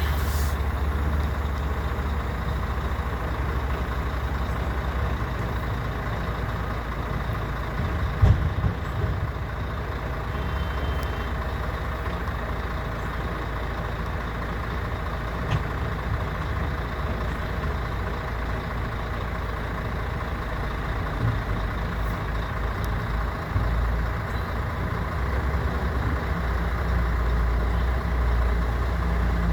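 Heavy mining dump truck engine running steadily, with a single loud knock about eight seconds in.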